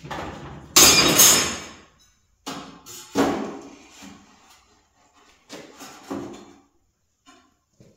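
Sheet-metal parts knocking and clanking as they are handled and set in place. One loud clank with a ringing tail comes about a second in, followed by several softer knocks.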